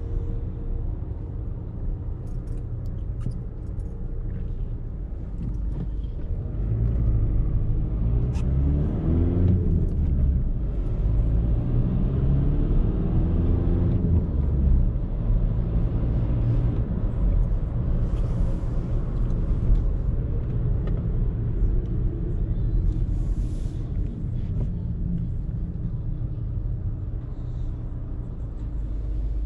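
Volkswagen Polo's engine and tyre noise heard from inside the cabin while driving in traffic. The engine note rises in pitch twice, about a quarter of the way in and again shortly after, as the car accelerates.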